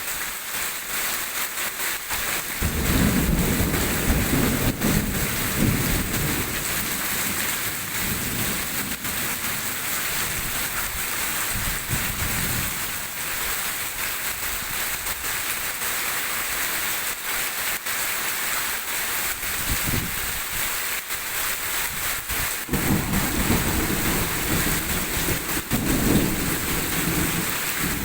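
Heavy rain pouring steadily with long rolls of thunder rumbling through it, one starting about two and a half seconds in, a shorter one in the middle, and another near the end.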